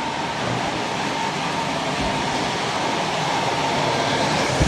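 Steady rushing of a ventilation fan, with a faint steady tone over it. A sharp knock comes right at the end.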